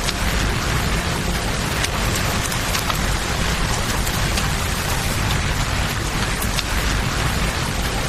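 Steady rain falling together with rushing river water, a dense even hiss over a deep low rumble, with scattered sharp ticks of drops or fire crackles.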